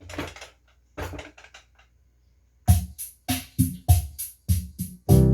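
A drum-machine intro of about eight evenly spaced hits, a little over three a second, leading into electronic keyboard music that starts near the end. Before the drums come two short bursts of a voice.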